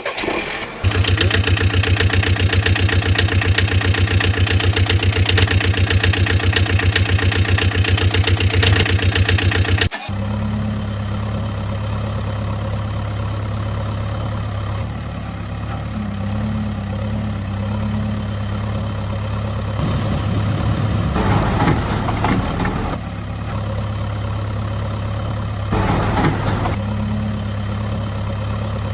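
Engine running with a fast, even pulsing beat for about ten seconds, then cutting off abruptly into a steadier idle. The idle picks up twice with brief louder surges, the first about twenty seconds in and the second about twenty-six seconds in.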